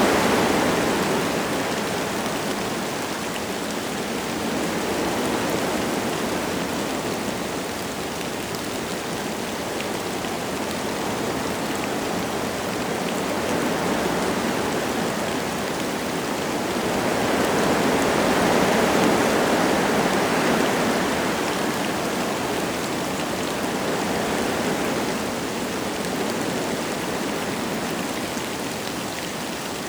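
Wind gusting through forest trees with light rain falling: a steady rushing that swells and eases in several slow gusts.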